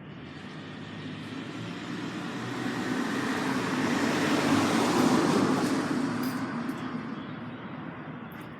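A vehicle passing by: its noise grows louder, peaks about five seconds in, then fades away.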